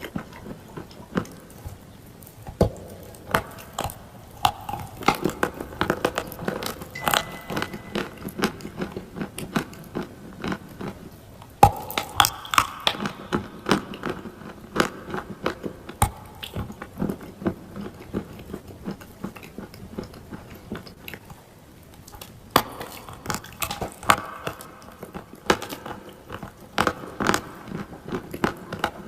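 Close-miked biting and chewing of clay: crisp, sharp crunches come in clusters, with a quieter spell of softer chewing past the middle.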